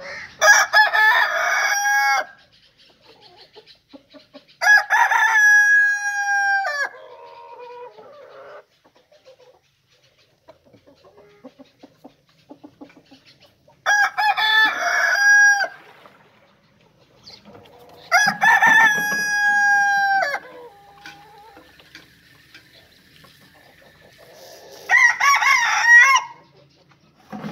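Five long rooster crows, each about two seconds and ending on a long held note, spaced a few seconds apart, with faint quieter calls between them.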